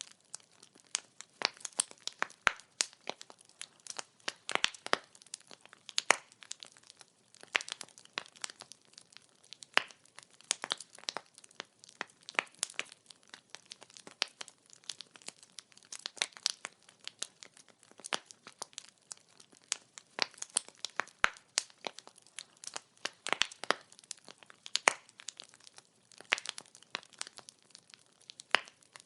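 Burning firewood crackling and popping: irregular sharp snaps, several a second, over a faint low hiss.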